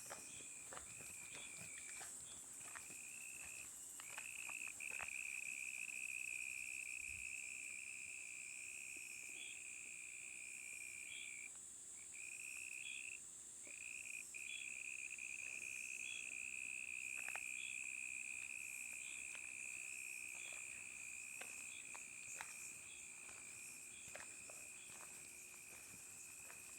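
Night insect chorus of crickets: one steady high trill that breaks off briefly twice near the middle, over a higher hiss of many more insects and a faint regularly repeating chirp. Soft footsteps click here and there.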